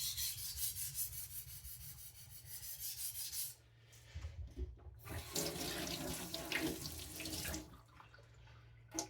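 Water running in two stretches: about three and a half seconds, a short break, then about two more seconds. A single sharp click comes near the end.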